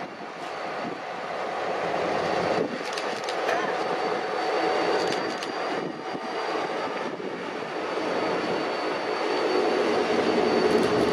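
A diesel-hauled train running on the rails, growing steadily louder as it approaches, with a few sharp clicks over its steady rumble.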